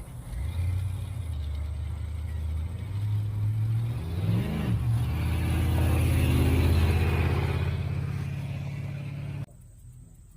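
A car's engine rumbling as it pulls out, with one quick rev that rises and falls about four and a half seconds in, growing louder until it cuts off suddenly near the end.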